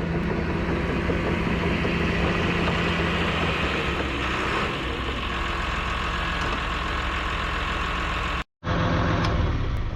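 Heavy diesel engine idling steadily, breaking off for an instant about eight and a half seconds in.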